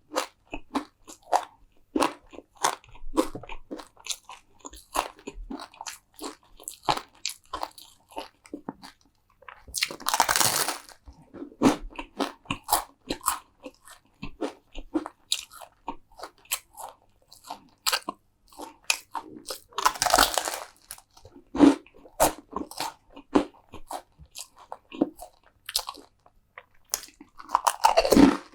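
Close-miked eating: a person biting and chewing crunchy food, with short crisp crunches several times a second. A louder, longer crunch comes about ten seconds in, again about twenty seconds in, and near the end.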